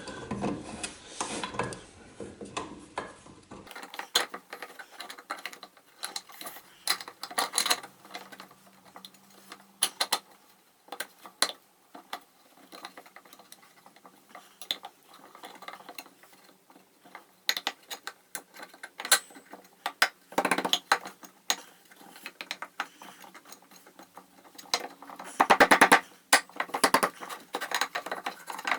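Metal parts and hand tools clinking and clattering as an old air compressor is reassembled and bolted together, with a dense run of rapid clicks near the end, like a ratchet wrench tightening bolts.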